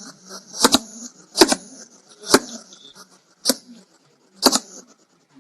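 Hedgehog making short, sharp puffing sounds, roughly once a second.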